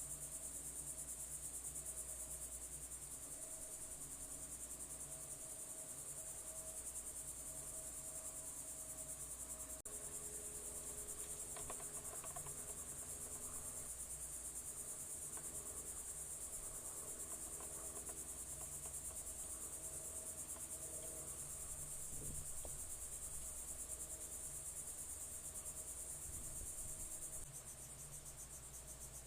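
Crickets trilling in a steady, high-pitched, finely pulsing chorus, which changes slightly and drops a little in level near the end.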